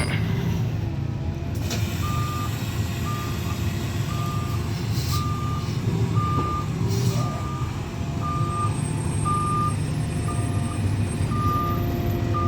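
Garbage truck reversing: its back-up alarm beeps on one steady tone about one and a half times a second, starting about two seconds in, over the truck's running engine.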